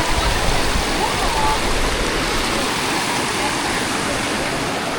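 Creek water rushing and cascading over rocks in a steady, even rush, with faint voices in the background.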